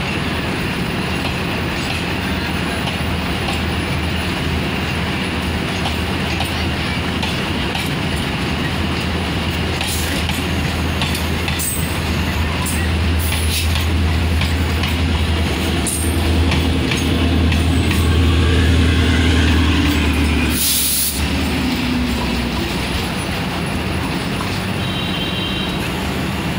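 Diesel passenger train running past on the next track, its engine giving a steady low drone that grows louder for a few seconds past the middle. A short hiss of air, typical of air brakes, comes about twenty seconds in, with a few sharp clicks from the wheels and couplings earlier on.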